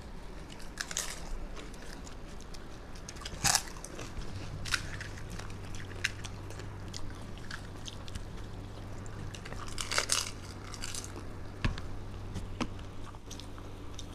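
Close-miked chewing and crunching of panipuri (fuchka): crisp fried puris cracking and being chewed. The crunches come irregularly, one sharp one about a third of the way in and a short cluster about two-thirds through, with a low steady hum underneath from a few seconds in.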